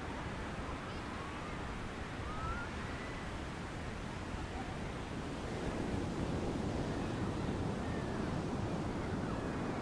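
Ocean surf washing on the beach, a steady rushing noise with wind on the microphone, growing louder about six seconds in.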